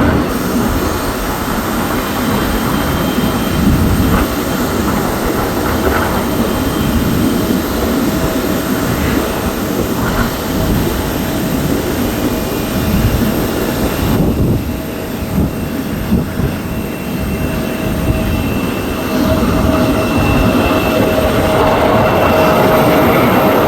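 Airbus A320's turbofan engines at takeoff power: a loud, steady low rumble with a whine, growing louder over the last few seconds.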